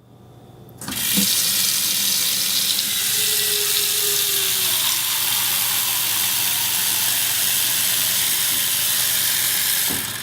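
Steady rush of water, starting abruptly about a second in and holding even throughout.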